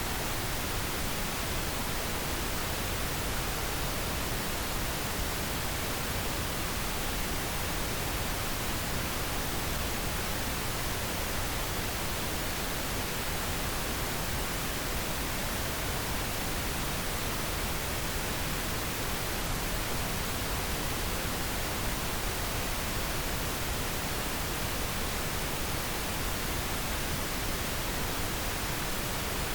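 Steady, unchanging pink noise: an even hiss across all pitches with no breaks or changes in level.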